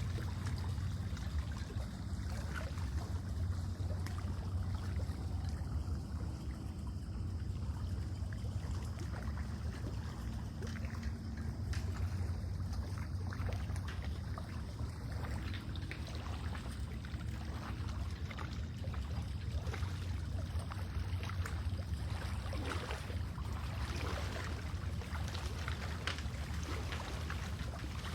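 Lake water lapping and trickling at the shore in many small splashes, which grow busier near the end, over a steady low rumble.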